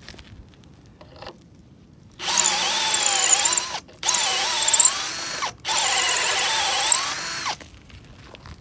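Power drill boring into a wooden timber-frame pole in three runs of a second and a half to two seconds, its motor pitch dipping and rising as the bit loads up, with oil fed into the hole to cool the bit.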